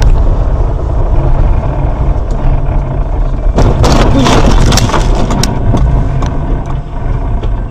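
Heavy vehicle engine drone as heard through a dash camera, with a loud burst of crunching and clattering from about three and a half to five and a half seconds in.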